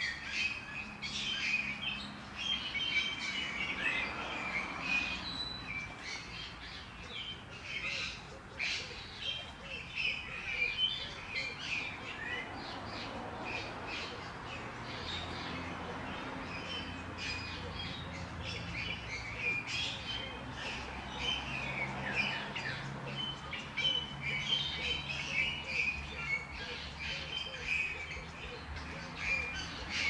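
Birds chirping and calling, many short chirps and brief calls overlapping, over a low steady hum.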